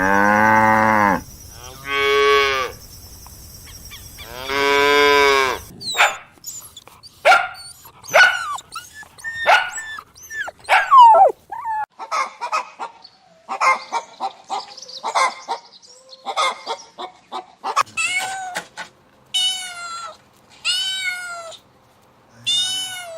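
A succession of farm animal calls. It opens with three long cattle moos, then a quick run of many short, sharp calls, then five higher-pitched calls near the end that rise and fall in pitch.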